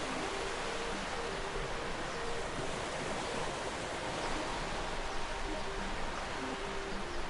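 Steady wash of sea waves and surf, with a soft, slow melody of short held notes playing over it.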